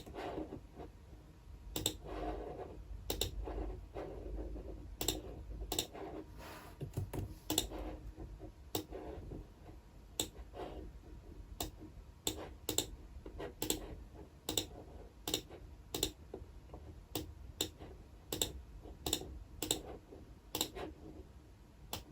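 Computer keyboard and clicking sounds: single sharp key or mouse clicks at an uneven, unhurried pace, roughly one or two a second.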